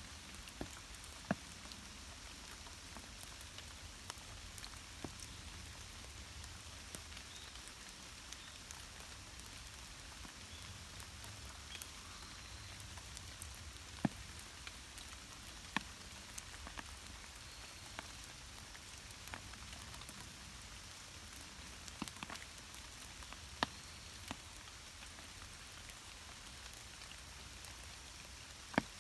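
Rain falling steadily, a soft even hiss, with sharp taps of single drops landing close by at irregular intervals, a few of them standing out clearly.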